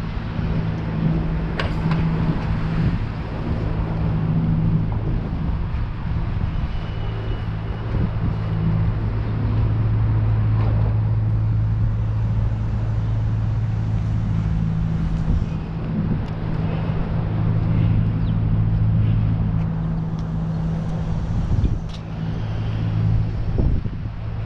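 A steady low engine hum, like a motor vehicle idling or running at constant speed, over street noise and wind on the microphone.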